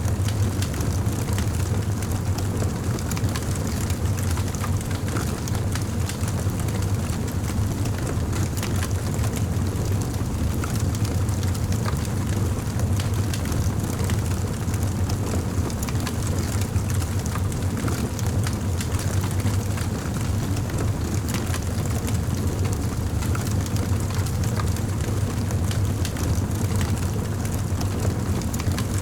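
Campfire burning: a steady low roar of flames with frequent small crackles and pops.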